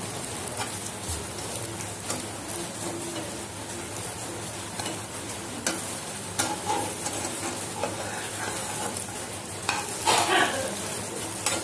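An egg omelette sizzling steadily in a nonstick frying pan, the gas just turned off so it cooks on the pan's remaining heat. A steel spatula scrapes and presses it, with a few short scraping strokes about halfway through and near the end.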